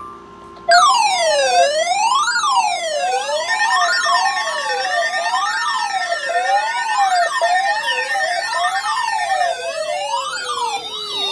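Several electronic sirens wailing together, starting abruptly about a second in, their pitch sweeping up and down roughly once a second. More siren tones, one held steady and others gliding up and down, join over the following seconds.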